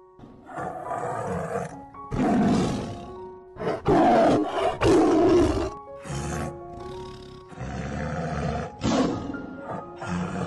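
An animal's loud, harsh calls, about eight in a row, each half a second to a second and a half long, over background music.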